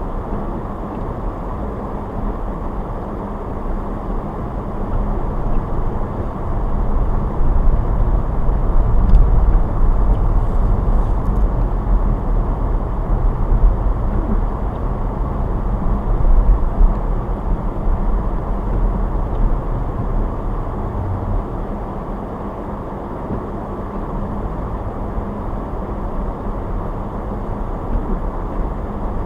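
Car driving: a steady rumble of road and engine noise, swelling louder for a stretch around the middle.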